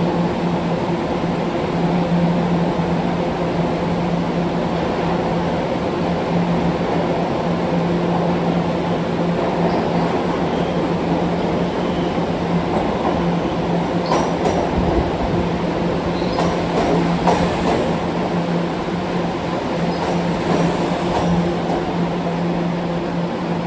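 New York City subway train moving through the station, a steady hum with a run of clicks and clanks from the wheels over the rail joints in the second half.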